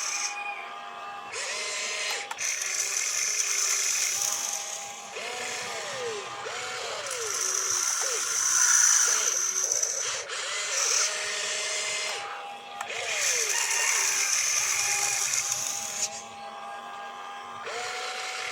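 Small electric motors and gearboxes of a radio-controlled construction vehicle whining as it works, each whine ramping up in pitch, holding and dropping away as a movement starts and stops, every second or two.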